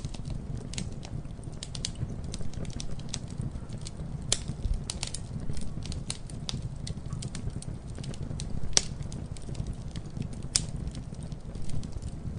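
Campfire crackling: a steady low rumble of burning with irregular sharp snaps and pops of the wood, a few of them louder than the rest.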